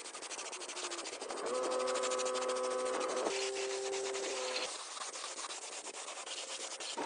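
A part being sanded: fast, even rasping strokes, with a steady tone sounding for about three seconds in the middle.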